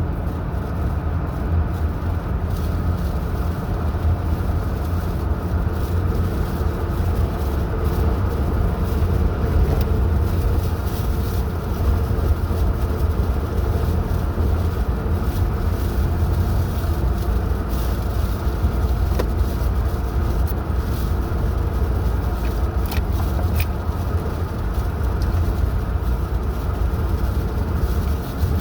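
Car driving at a steady speed: a constant low rumble of engine and tyre noise.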